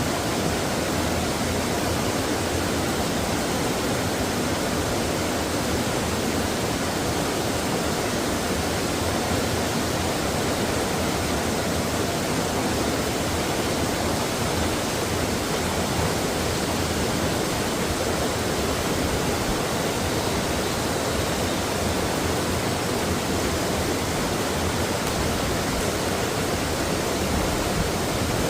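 Mountain stream water rushing steadily over rocks, a continuous even wash with no changes.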